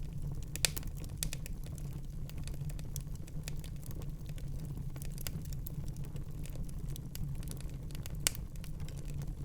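Wood fire burning in a fireplace: a low steady rumble of the flames with irregular sharp crackles and pops. Two pops, one early and one near the end, are louder than the rest.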